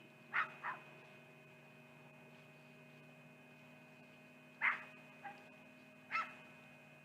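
Short bark-like animal calls: two quick ones at the start, then two more about two-thirds of the way through, with a faint one between them, over a steady electrical hum.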